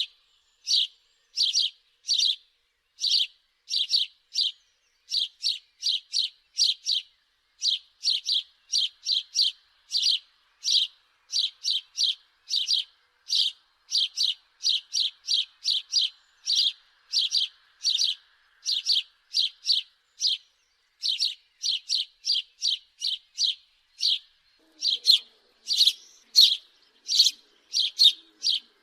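House sparrow chirping over and over, short sharp chirps at about two a second in an even, unbroken run.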